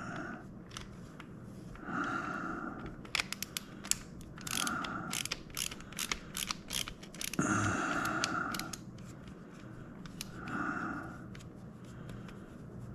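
Hands working on the plastic housing and parts of a Logitech Extreme 3D Pro joystick being taken apart: a run of quick, sharp clicks and ratcheting. Short rasping sounds come every two seconds or so.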